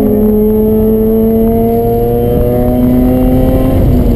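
Mazda RX-8's two-rotor Renesis rotary engine, fitted with an aftermarket header, mid-pipe and HKS exhaust, heard from inside the cabin pulling hard in gear, its note rising slowly and steadily. Near the end the note breaks off and drops at an upshift.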